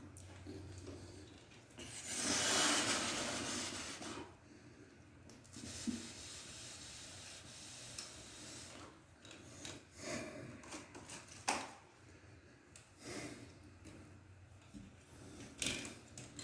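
Scraping and rubbing as ceiling fan parts are handled and fitted overhead, with scattered clicks; the loudest is a rasping scrape of about two seconds, a couple of seconds in.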